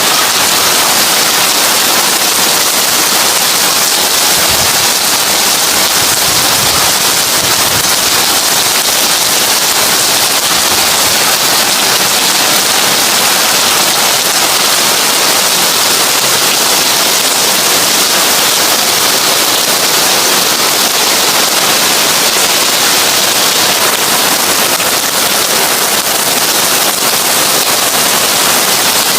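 Heavy rain falling on a tin roof: a dense, steady patter of drops on metal.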